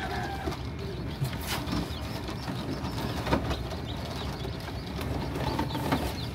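Birds calling faintly against a steady low rumble, with a few sharp clicks about one and a half, three and six seconds in.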